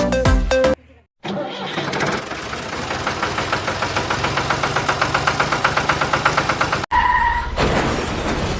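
Music cuts off about a second in. An engine-like running sound with a fast, even chugging pulse of several beats a second follows, then stops abruptly near the end, followed by a short steady tone and a burst of noise.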